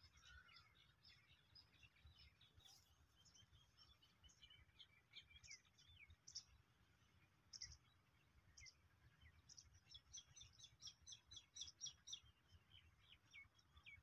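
Faint chirping of small birds: many short high calls, some of them sliding notes, coming thicker and faster in the last few seconds, over a faint low rumble.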